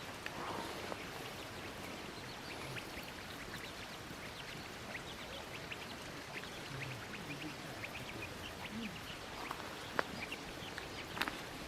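Steady outdoor hiss with many faint, scattered small ticks and rustles, and one sharp click about ten seconds in.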